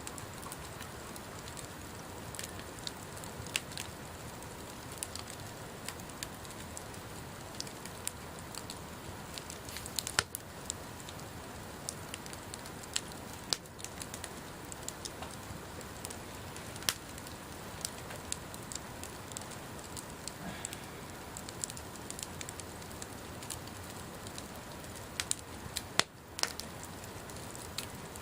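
Wood bonfire crackling: a steady hiss with frequent irregular sharp pops, a few of them much louder.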